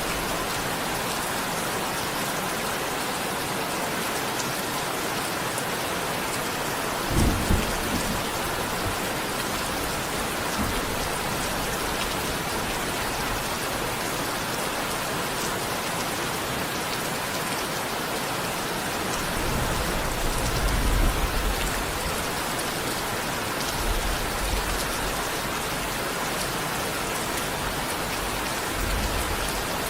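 Steady rain falling, an even hiss of drops. A few low rumbles rise under it: a short one about seven seconds in and a longer one around twenty seconds in.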